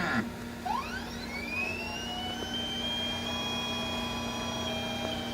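An internal motor of an atomic absorption spectrophotometer whining during its self-test. The pitch rises over about the first second and a half, then holds steady over a low steady hum.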